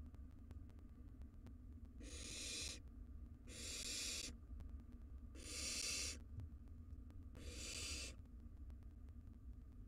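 Barn owl nestlings' hissing, snore-like begging calls: four harsh hisses, each under a second, coming every one and a half to two seconds over a low steady hum.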